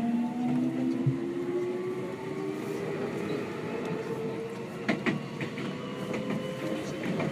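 Seibu 6000 series train's Hitachi GTO-VVVF inverter and traction motors whining, several tones rising slowly in pitch as the train accelerates. Heard from inside the car over running noise, with a few sharp wheel clicks about five seconds in.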